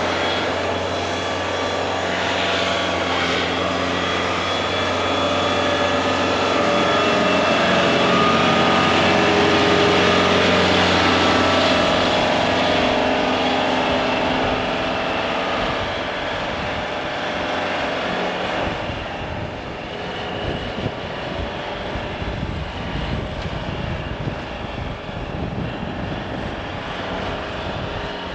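Engine of a snow-clearing machine running steadily under load. About halfway through the steady hum gives way to a rougher, uneven sound.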